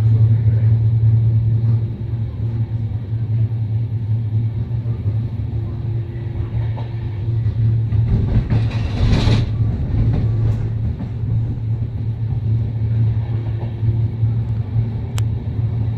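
Steady low rumble of a double-decker sleeper train running on the rails, heard from inside the carriage. A brief rushing noise swells and fades about nine seconds in, and there is a single sharp click near the end.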